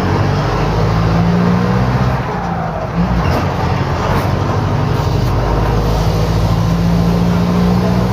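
Diesel engine of a Mercedes-Benz OF-1721 BlueTec 5 bus running with a holed exhaust, which makes the note louder and rougher than a sound exhaust. The engine note holds steady, with a short drop in level about two to three seconds in before it picks up again.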